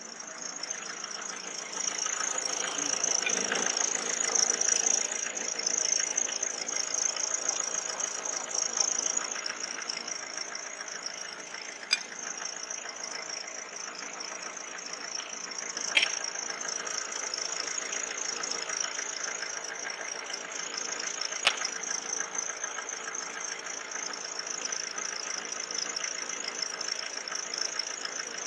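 Citroën Xsara 2.0 HDi diesel engine running, with a steady high-pitched whistle from the accessory drive: a worn, loose bearing in the air-conditioning compressor's pulley. Three sharp clicks stand out, several seconds apart.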